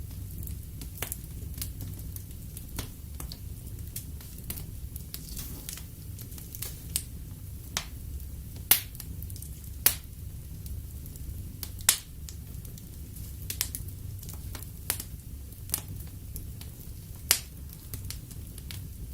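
Wood fire burning in a fireplace: irregular sharp crackles of the burning logs, with a handful of louder pops, over a steady low rumble of the flames.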